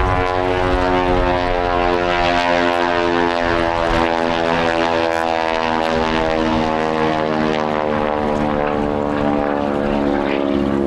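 North American NA-64 Yale's Wright Whirlwind radial engine and propeller running with a steady, many-toned drone.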